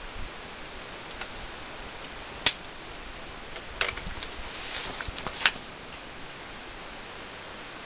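Steady hiss with a sharp click about two and a half seconds in, then a short run of clicks and a brief rustle around the middle. No engine is running.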